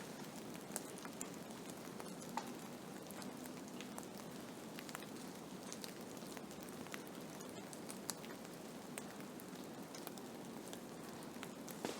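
Blizzard ambience: a steady hiss of wind-driven snow with many scattered light ticks pattering against a surface.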